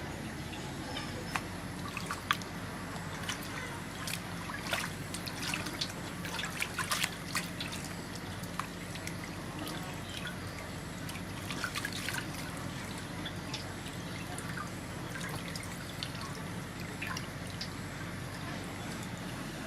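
Water trickling and dripping with scattered small clicks and splashes, as raw pork is washed by hand.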